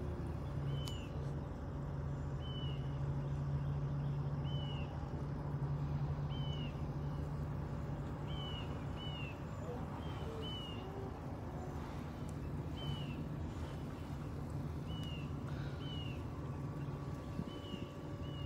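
A bird chirping over and over, short high chirps about once a second, over a steady low hum.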